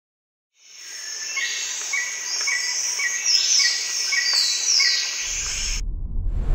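Forest chorus of insects and birds: a steady high shrill with repeated downward-sweeping calls and short chirps about every half second. Near the end it cuts off and the low rumble of a car driving, heard from inside the cabin, takes over.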